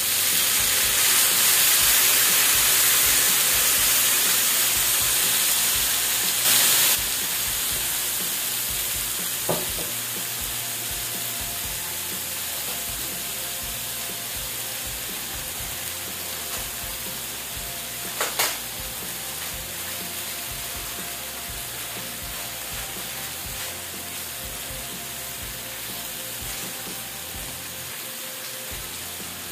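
Fish sauce hitting a hot steel wok of squash and string beans, sizzling loudly at first and slowly dying down. A couple of brief louder spurts, around seven seconds in and again near eighteen seconds.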